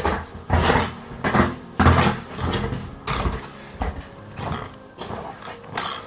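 Footsteps crunching through snow at a walking pace, about two steps a second.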